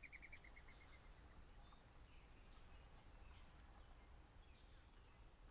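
Faint songbirds singing: a quick trill of repeated notes that slows and stops about a second in, then scattered short chirps and a thin, high trill near the end, over a steady low rumble.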